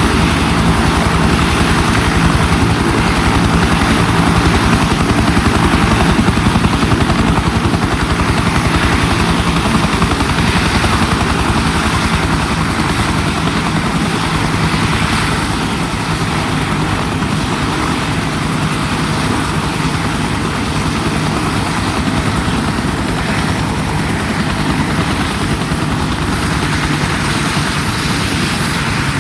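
Bell UH-1 helicopter running steadily, its single turbine engine and rotor giving a loud, fast, even beat, easing slightly about halfway.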